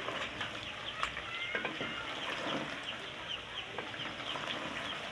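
Potatoes, chicken and spice paste sizzling in an aluminium pot while being stirred with a wooden spoon. The masala is being fried. Chicks peep in short, falling chirps throughout.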